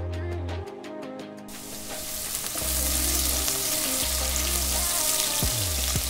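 Sliced onions, garlic and green chillies sizzling as they fry in oil and are stirred, at the stage of lightly softening the onions. The sizzling cuts in abruptly about a second and a half in, over background music.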